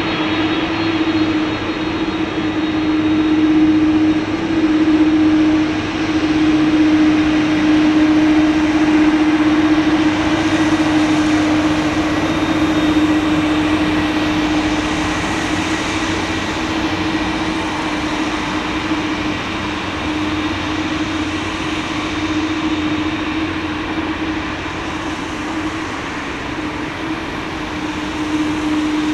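Jet engines of an Airbus A330-300 running, a steady roar with a held hum. It is loudest in the first third and eases slightly later on.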